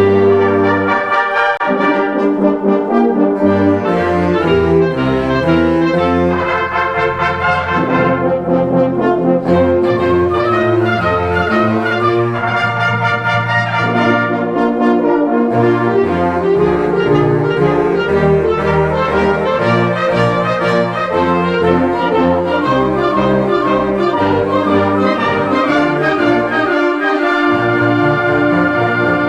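Concert band playing, with the brass section (trumpets, trombones and horns) leading in full, held chords that change every second or two.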